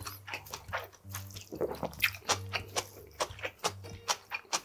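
A person chewing a mouthful of hiyashi chuka cold noodles close to the microphone, with many sharp wet mouth clicks, several a second.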